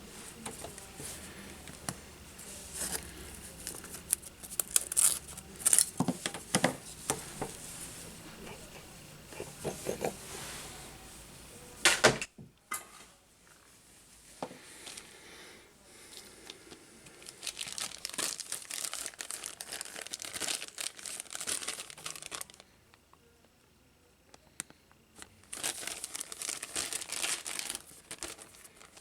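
Crinkling and rustling of material being handled at a workbench, coming in irregular bursts with sharp clicks and crackles, and two short lulls, one near the middle and one near the end.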